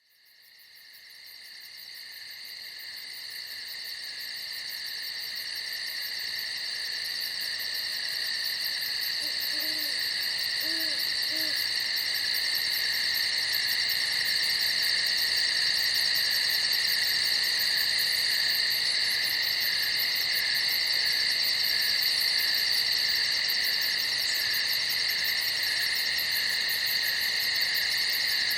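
A night chorus of crickets chirping in a steady, dense, high-pitched trill, fading in from silence over the first several seconds. About ten seconds in, three short low hoots sound faintly beneath it.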